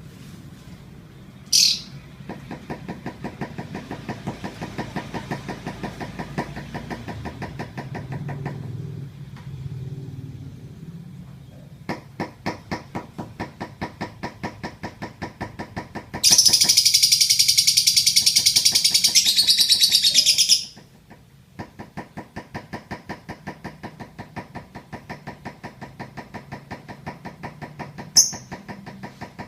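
Lovebird giving a short chirp, then about four seconds in the middle a loud, unbroken, rapid high trill (the 'ngekek' chatter), and another short chirp near the end. A steady ticking of about two to three beats a second runs underneath.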